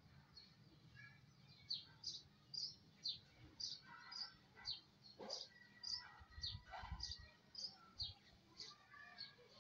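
Small birds chirping faintly, short high chirps about two a second, with a brief falling sound and a faint held tone in the middle.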